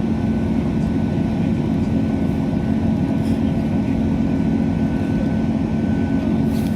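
Diesel train running steadily, heard from inside the carriage: a constant low engine hum with a thin steady whine above it and rolling noise underneath.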